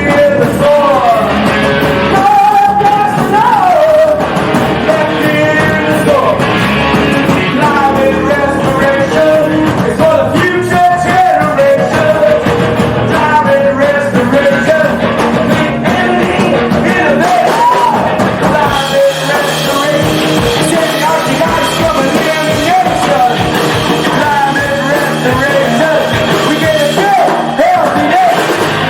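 Rock band playing a passage without words, a lead melody line bending up and down over the full band.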